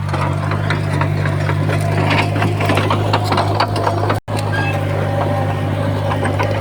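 Crawler bulldozer's diesel engine running steadily under load, with many clanks and rattles from the tracks and pushed stone. The sound cuts out for an instant about four seconds in.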